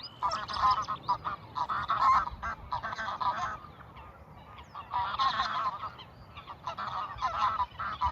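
Geese honking in repeated bursts of overlapping calls, with a lull about halfway through.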